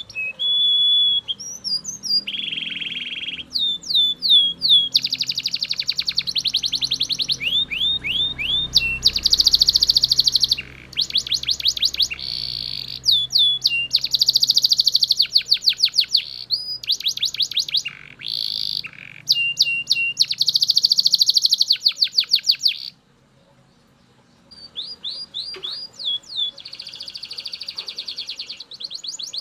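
Belgian canary singing a long, loud song of rapid trills and fast runs of repeated sweeping notes, phrase after phrase. It breaks off for about a second and a half some 23 seconds in, then starts again.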